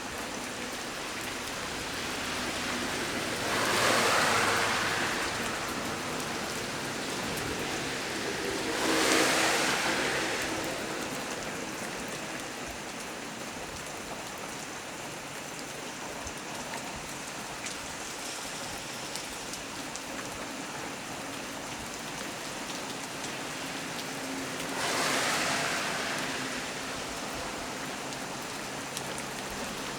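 Heavy rain falling steadily, with three brief swells of louder rushing about four, nine and twenty-five seconds in.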